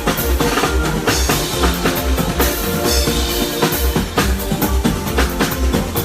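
Live band playing a steady groove during a sound check: drum kit with a regular bass-drum beat, snare and cymbals, over held bass and keyboard-like notes.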